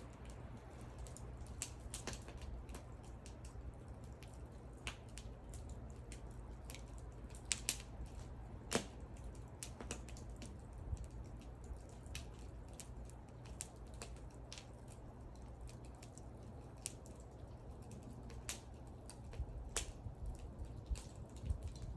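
Wood fire burning, crackling and popping at irregular intervals, with a few sharper snaps about eight seconds in and again near the end, over a low steady rumble.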